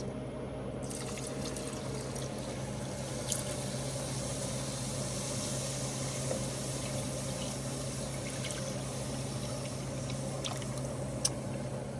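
Cream being poured into a hot butter-and-flour roux in a large sauce pot, a steady pouring sound starting about a second in.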